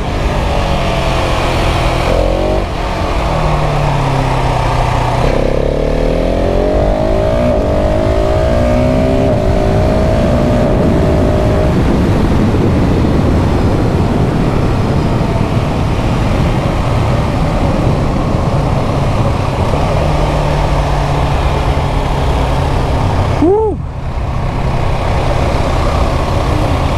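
KTM 690 SMC R's single-cylinder engine pulling hard up through the gears, its pitch rising and dropping back at shifts about two and a half and five and a half seconds in, then running steadily under wind rush. Near the end the throttle is briefly closed and reopened with a quick rise in engine pitch.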